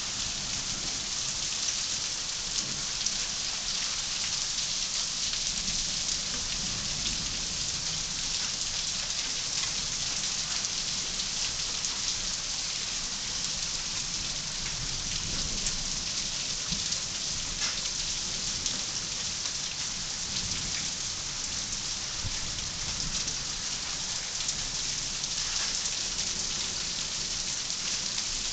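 Heavy rain falling steadily: a dense, even hiss with fine scattered drop ticks and a low rumble underneath.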